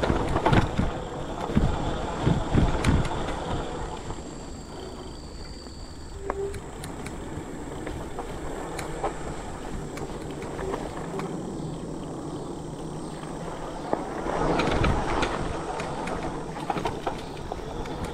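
Fat-tire electric mountain bike being ridden over a bumpy dirt trail: a steady rumble of tyres and wind, with many sharp knocks and rattles from bumps. The rumble grows louder in the first few seconds and again about fourteen seconds in.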